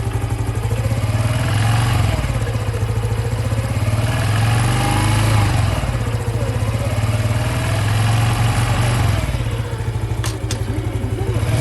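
Honda Cross Cub 110 engine running, its revs rising and falling three times, recorded for an abnormal noise (異音) that the owner is tracking down. Two sharp clicks a little after ten seconds in.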